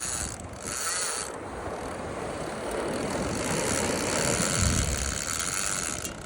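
Heavy saltwater fishing reel's drag screaming as a big hooked hammerhead shark runs and pulls line off the spool. A steady high whine that grows stronger in the second half.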